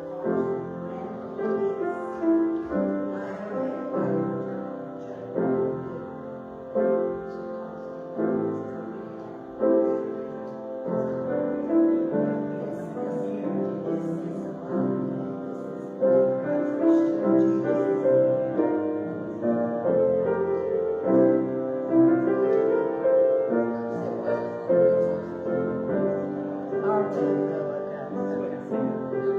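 Instrumental piano music, a prelude played before the service begins.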